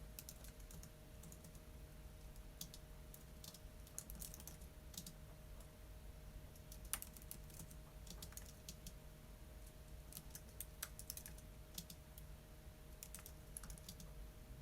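Faint typing on a computer keyboard: soft keystroke clicks in irregular bursts with short pauses between them, over a steady low hum.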